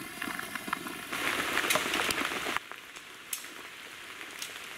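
Rain falling on a soaked tent and ground sheet, a steady hiss with scattered drip ticks. It grows louder about a second in and drops back suddenly a little past halfway.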